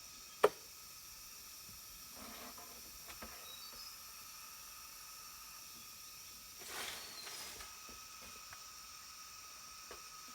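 Steady insect drone with a few short bird chirps. A single sharp click about half a second in, and two brief scraping rustles, around two and seven seconds in.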